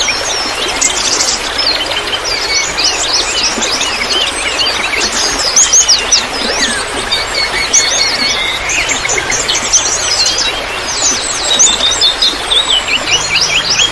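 Many songbirds chirping and twittering together, with rapid overlapping calls packed throughout. Under them runs a steady hiss of trickling water.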